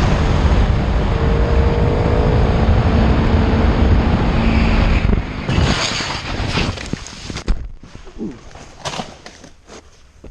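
Kawasaki Ninja 300 parallel-twin motorcycle ridden at speed: heavy wind rush on the microphone with the engine's tone under it. About five and a half seconds in the rush breaks off into a run of irregular knocks, scrapes and clatters as the bike crashes.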